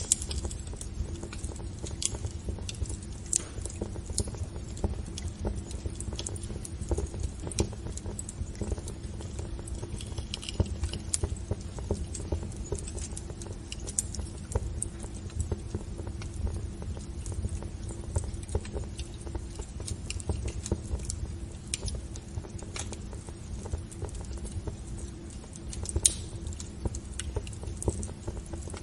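Wood fire in a fireplace crackling, with irregular snaps and pops over a low steady rumble. One sharper pop comes near the end.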